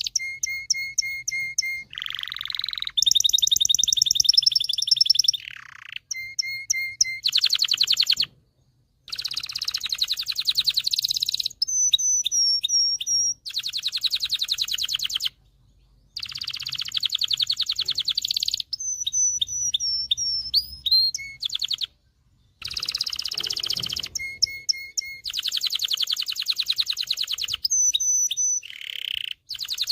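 Domestic canary singing: phrases of fast repeated trills and rolls, each a second or two long, alternating with clear gliding whistles and broken by brief pauses.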